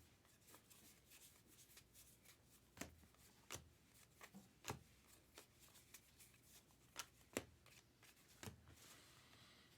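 Faint handling of baseball trading cards, flipped through one by one. Soft irregular taps and clicks sound every second or so as cards slide off the stack and are set down.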